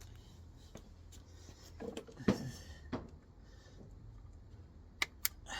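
Scattered knocks and clicks of hand work on the engine: a knock about two seconds in, another near three seconds, and two sharp clicks close together near the end.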